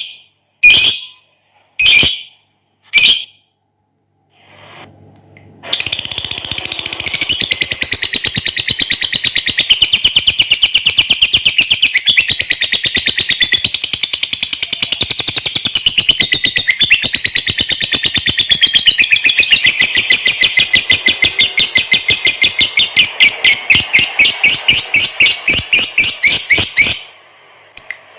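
Lovebird giving a few short sharp calls about a second apart, then breaking into a long, rapid, unbroken chattering trill (the 'ngekek panjang' song) lasting about twenty seconds before stopping shortly before the end.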